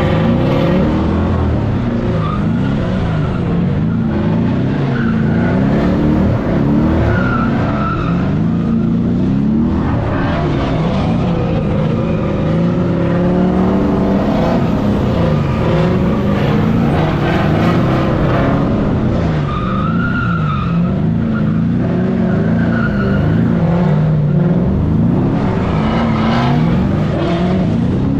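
Car engine revving up and down over and over while the tyres skid and squeal now and then, as the car is driven sideways through corners.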